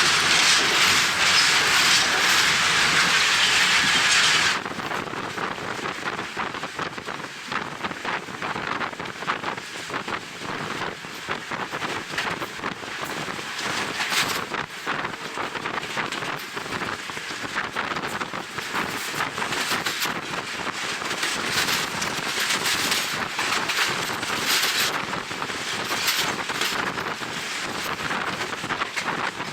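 Moving passenger train heard from an open window, with wind rushing over the microphone. The wind is loud for the first four or so seconds, then drops suddenly, leaving the running train with irregular rattles and knocks of the carriage.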